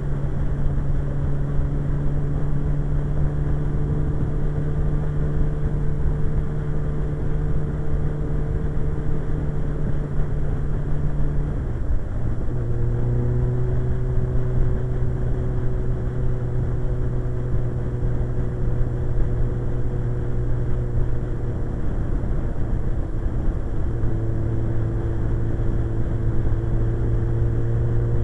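Suzuki GSX-R 1100 inline-four engine running at a steady cruise under a low wind rumble. About twelve seconds in the engine note breaks briefly and comes back at a lower pitch, as the bike changes up a gear.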